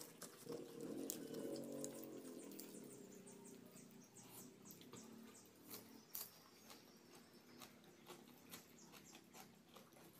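Close-miked eating: a run of small wet clicks and crackles from chewing raw lettuce leaves with green sambal. A low hum sounds about half a second in and lasts about two seconds.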